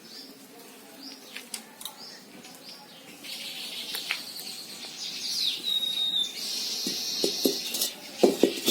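Birds chirping and calling, with short repeated chirps at first and a denser high chatter from about three seconds in, including one clear whistled note. A few soft knocks come near the end.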